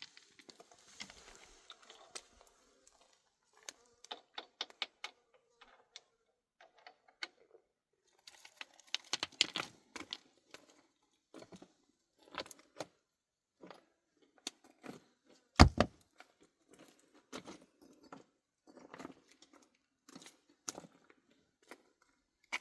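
Scattered clicks and knocks of hard objects being handled, with one much louder heavy thump about two-thirds of the way through.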